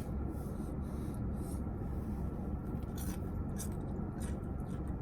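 Light rustling and small scrapes from food and its packaging being handled, with a few short crinkles about three to four seconds in, over a steady low hum.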